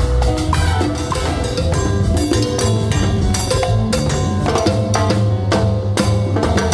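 A Latin band playing salsa-style music at a sound check, with timbales and other percussion striking sharply over a steady bass line.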